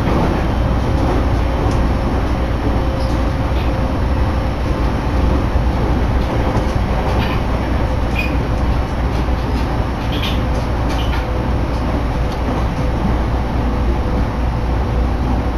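Sobu Line commuter train running between stations, heard from inside the car: a steady low rumble with a faint steady whine and occasional light clicks.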